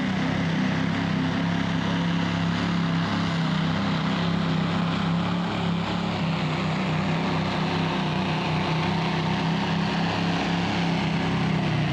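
A competition pulling tractor's engine running steadily under load as it drags the weight-transfer sledge, a steady low drone.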